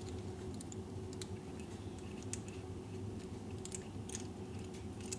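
Faint, scattered light metal clicks as the loosened oil drain plug is unscrewed from the engine, over a low steady hum.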